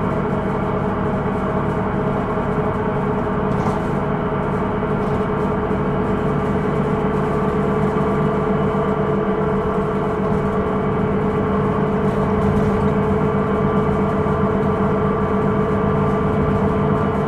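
Hino Rainbow II bus running, its engine and road drone overlaid by a steady ringing whine of several held tones, the strongest at a middle pitch. The whine is the abnormal noise (異音) this bus is known for.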